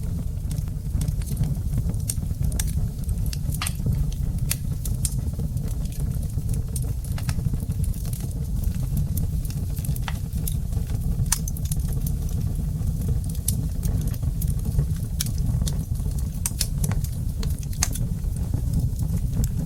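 Wood fire burning in a brick fireplace: irregular sharp crackles and pops from the burning logs over a steady low rumble of the flames.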